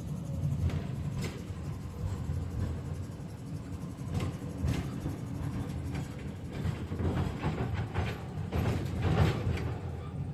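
KTM-5M3 tram running along the track, heard from on board: a steady low rumble with scattered clacks and knocks from the wheels and rails, more frequent in the second half.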